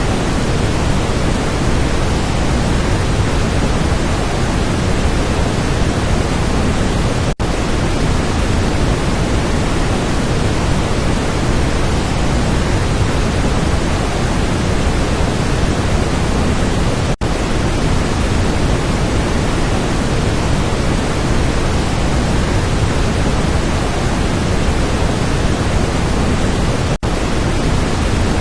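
Steady, even rushing of a waterfall, broken by three very brief dropouts about ten seconds apart.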